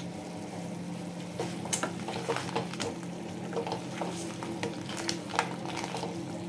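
Crab masala sizzling in a steel pan while a wooden spatula stirs through the crab pieces, with many short knocks and scrapes against the pan.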